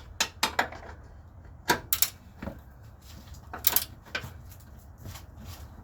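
Scattered sharp metallic clicks and knocks, irregularly spaced and some in quick pairs, from a ratchet wrench and hand tools working the engine mount bolts.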